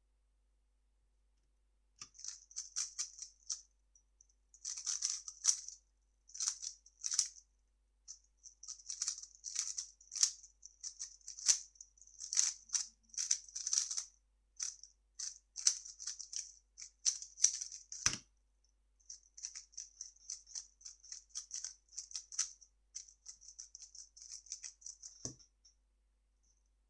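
3x3 speedcube being turned fast: rapid clicky layer turns in quick flurries with short pauses, starting about two seconds in. A dull thump comes about two-thirds of the way through and another near the end.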